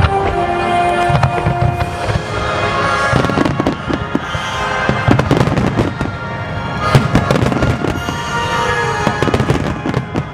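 Fireworks display: aerial shells bursting and crackling in clusters, over music played for the show.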